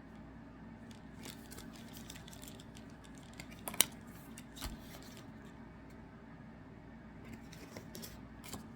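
MetaZoo trading cards being handled and sorted: faint rustling with scattered light clicks, and one sharper click about four seconds in.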